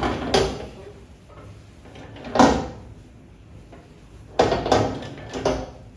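About half a dozen short knocks and bumps from a microwave oven being handled and its parts moved, the loudest about two and a half seconds in.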